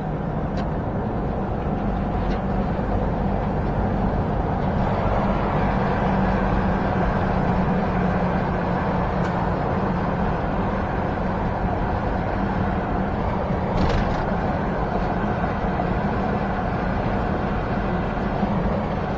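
Semi-truck diesel engine running with steady road and tyre noise, heard from inside the cab while driving on the highway. The engine hum rises a little in pitch about two seconds in.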